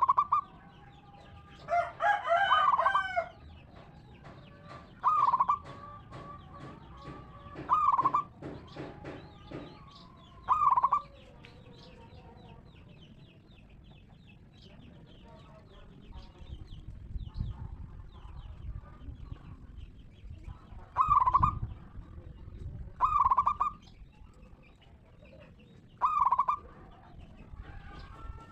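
Zebra dove (perkutut) calling: short cooing phrases repeated every two to three seconds, with a quieter pause in the middle. A rooster crows once about two seconds in.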